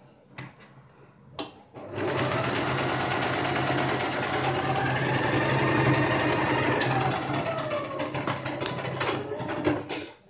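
Sewing machine stitching a narrow dart in blouse fabric for about eight seconds, speeding up and then slowing before it stops. A few small clicks come before it starts.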